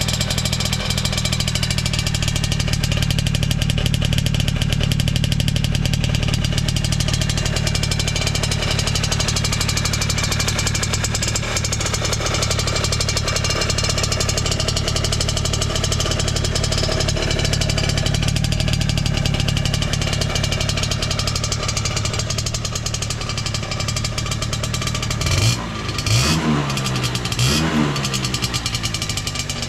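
Two-stroke motorcycle engine breathing through a vintage Hurricane HI-R expansion chamber, idling steadily and then revved in three quick throttle blips near the end. It runs cleanly with no abnormal noise.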